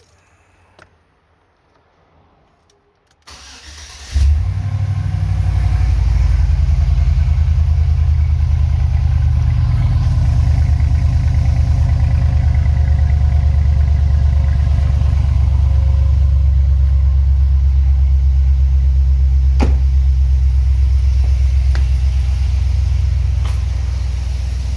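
A Chevrolet Silverado's 4.8-litre V8, fitted with a custom-built exhaust, is cranked and catches about four seconds in. It then idles with a steady, deep exhaust rumble, which becomes a little quieter near the end.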